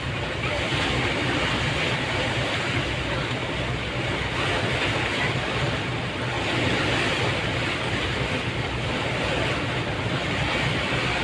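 Steady rushing of river water with wind on the microphone, over a faint low hum.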